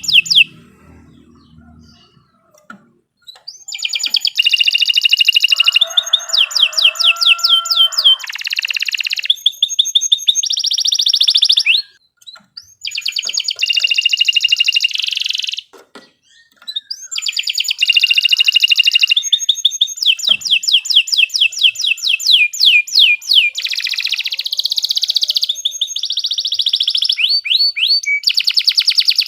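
Domestic canary singing long phrases of fast, rolling trills and rapidly repeated high notes, broken by a few short pauses.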